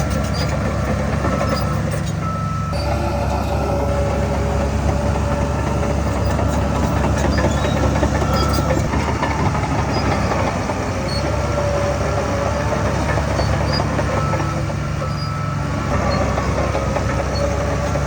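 Crawler bulldozer's diesel engine working steadily, with its steel tracks clattering and squealing on and off.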